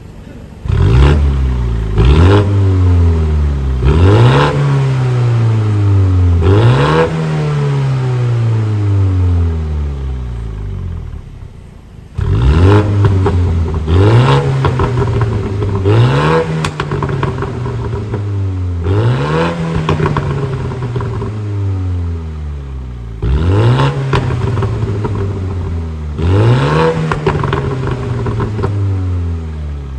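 BMW M135i exhaust with a straight-through middle pipe in place of the stock centre muffler, free-revved in repeated sharp blips, each falling back slowly with crackling on the way down. The straight-pipe centre section makes it louder than stock.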